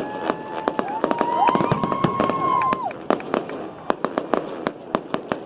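Fireworks display: a rapid run of sharp bangs and crackling reports, with steady whistling tones over the first three seconds.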